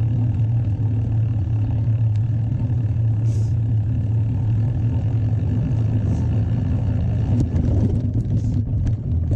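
Steady low rumble of mountain-bike riding, tyre and wind noise on the camera microphone, with scattered clicks and rattles near the end.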